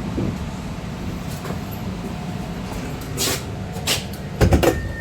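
Tram interior: a steady low rumble from the running tram, then two short hisses and a quick cluster of loud clunks near the end.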